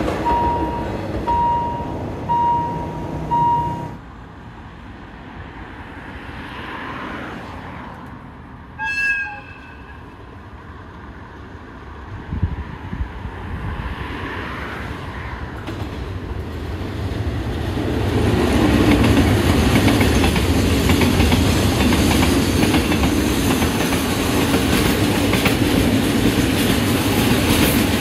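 Thai railway trains. For the first few seconds a warning tone beeps about twice a second. After a cut, a train horn gives a short blast about nine seconds in. From about eighteen seconds a train passes close by, its wheels running loudly over the rails with a heavy rumble and clatter.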